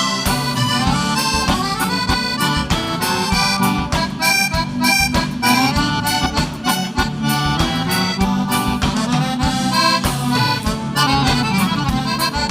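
Live gaúcho dance music: an instrumental passage led by a button accordion playing the melody, over a bass line and a steady, quick drum beat.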